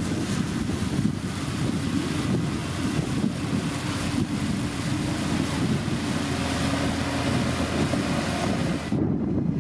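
Heavy diesel construction machine's engine running steadily, with wind buffeting the microphone; the high hiss drops away abruptly near the end.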